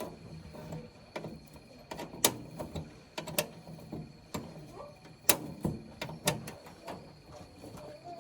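Irregular sharp knocks and taps, about a dozen, spaced unevenly, with the loudest about two seconds in and again past the five-second mark.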